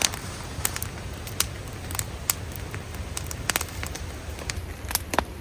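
Wood campfire crackling, with sharp, irregular pops over a low, steady rumble.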